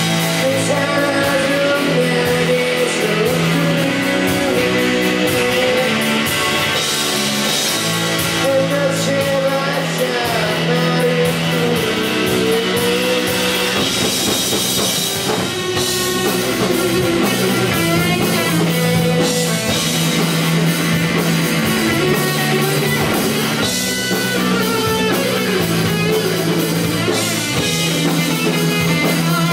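Rock band playing live between sung verses: electric guitar and drum kit, with a wavering melodic lead line over sustained low notes.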